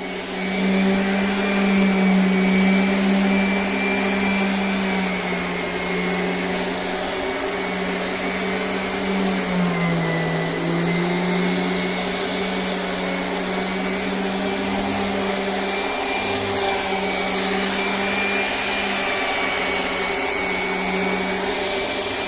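Electric power tool motor running steadily with a high whir, its pitch sagging briefly about ten seconds in as if taking load, then recovering.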